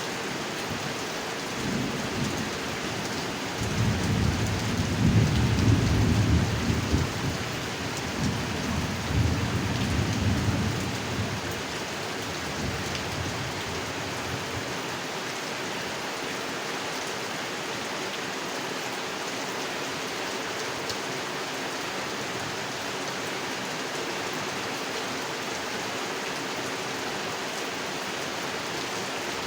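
Heavy rain falling steadily, with a low rumble of thunder that builds from about four seconds in, peaks a couple of seconds later and dies away by about twelve seconds.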